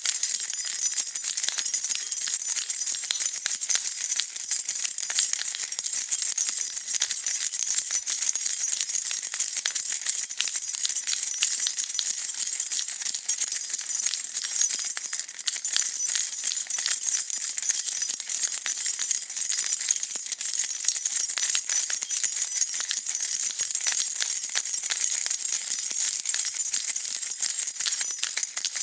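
A bunch of metal keys being shaken and jingled continuously, a dense, steady jangle of bright clinks without pause.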